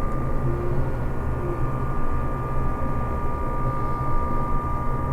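Steady, loud industrial drone from the BD facility: a constant low hum with a couple of steady whining tones on top, running without let-up.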